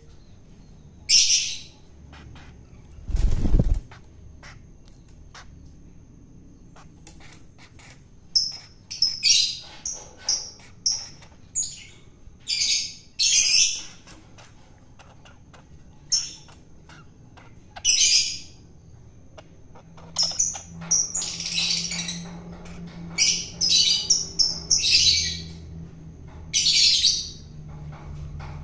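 Long-tailed shrike giving short, harsh, rasping calls, scattered at first and then coming in quick runs through the second half. A single loud low thump about three seconds in.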